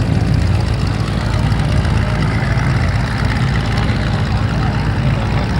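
An engine running steadily at idle, a low, even hum that does not rise or fall.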